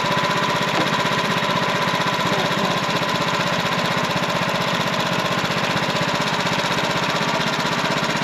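Wood-Mizer portable sawmill's gasoline engine running steadily, a fast even engine pulse with a steady whine on top.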